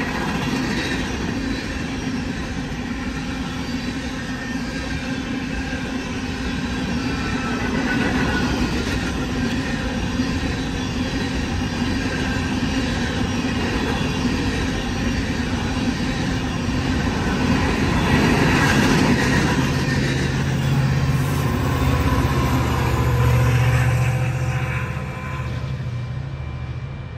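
Empty coal hopper cars of a freight train rolling past, wheels clattering over the rail joints in a continuous rumble. A steady low drone joins after about 18 seconds, and the sound drops off shortly before the end.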